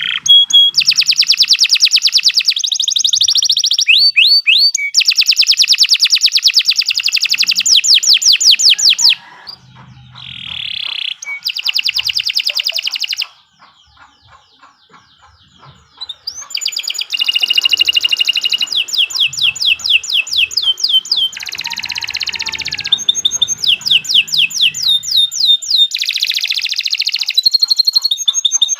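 Domestic canary singing a long, continuous song of rapid high trills and rolls, each trill made of quickly repeated syllables. There is a quieter break of a few seconds near the middle before the trills resume.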